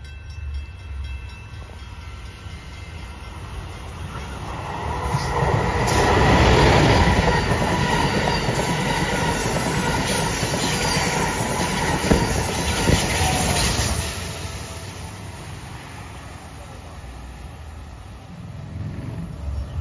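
Amtrak Acela Express trainset passing at speed on the near track: a rush of wheels on rail that builds over a few seconds, holds loud for about eight seconds, then fades away.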